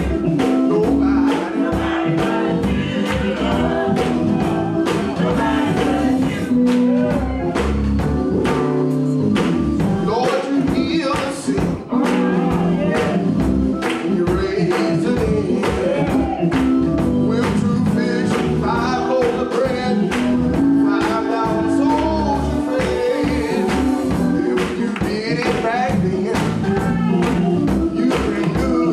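Gospel choir singing with band accompaniment over a steady percussion beat.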